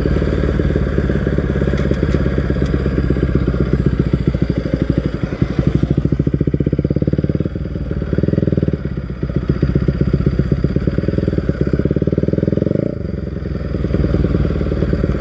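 Bajaj Pulsar NS200's single-cylinder engine running through an aftermarket Akrapovic exhaust while the bike is ridden at low revs. The exhaust note rises and falls a few times as the throttle changes.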